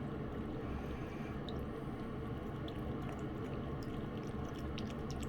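A cat eating wet cat food: small wet chewing and licking clicks, more frequent toward the end, over a steady low hum.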